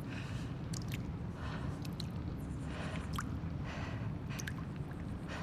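Abandoned-building ambience: a steady low rumble with scattered small ticks, clicks and brief soft hisses at irregular moments.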